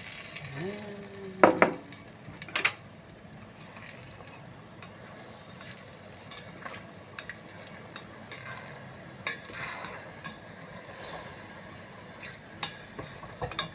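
A spoon stirring chicken kurma in a cooking pot, with a few sharp clanks against the pot about one and a half to two and a half seconds in, then quieter scattered scrapes and taps.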